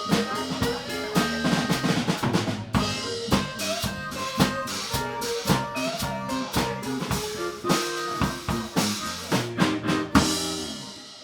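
Live blues band playing: drum kit with snare and bass drum over bass and other pitched instruments. The tune ends on a final accented hit about ten seconds in that rings out and fades.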